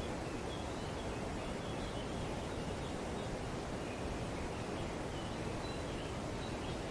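Steady wind rushing through tree foliage, with faint, scattered high bird chirps over it.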